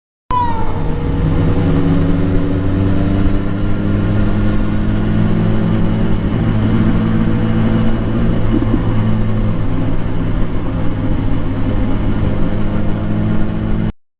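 A vehicle engine running steadily, with several held tones, starting abruptly and cutting off suddenly near the end.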